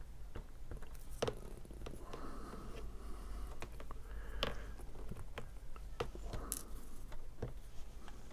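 Cut cardstock pieces being handled and set down on a tabletop: soft paper rustling with a handful of sharp light taps and clicks scattered through, over a steady low hum.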